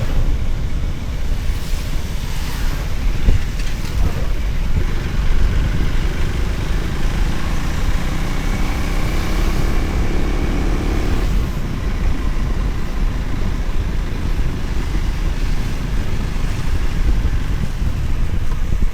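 Wind buffeting the microphone on a moving motorcycle, with the motorcycle running underneath. A faint pitched whine is heard from about five seconds in and cuts off at about eleven seconds.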